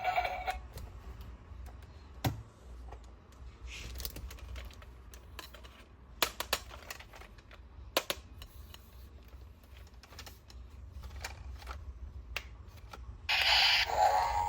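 Scattered light clicks and taps of plastic toys and packaging being handled, with a few sharper snaps. Near the end a louder sound with steady tones starts.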